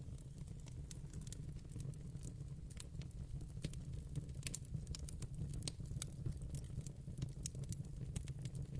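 Wood fire burning in a fireplace: a steady low rumble of the flames with irregular sharp crackles and pops from the burning wood, coming thicker around the middle.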